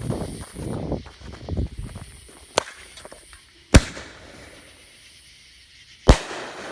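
Consumer ball-shell firework mortar going off: a small sharp pop about two and a half seconds in, then two loud bangs about two and a half seconds apart, the shell's lift from its tube and its burst overhead.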